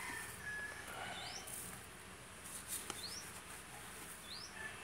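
A bird calling in the background: four short, high, upward-sweeping chirps, evenly spaced, over faint outdoor background noise.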